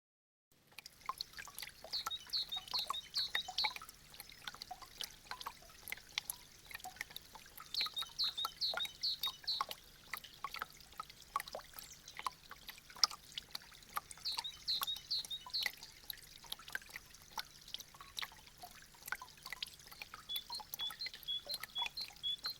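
Meltwater dripping from icicles: a constant patter of many quick drips and trickles, starting after a brief silence.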